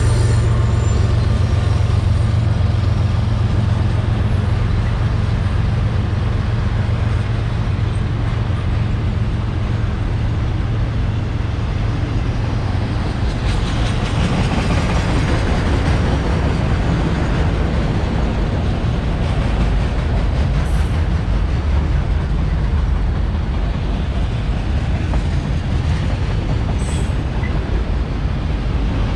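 CSX freight train rolling past at close range: a steady, loud rumble of wheels on rail, swelling a little around the middle.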